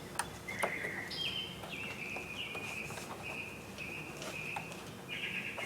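A bird singing outdoors: a string of short, high, whistled notes that step up and down in pitch, about two a second. A few faint clicks come with it.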